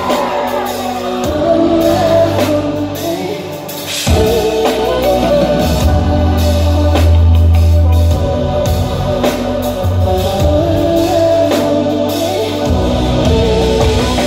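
Amplified live R&B band music in a concert hall, with singing over it; a heavy bass and drums come in about four seconds in.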